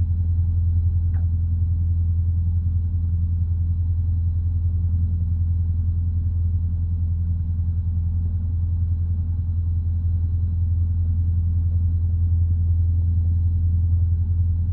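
Light aircraft's piston engine droning steadily in cruise flight, heard from inside the cockpit as a constant low hum.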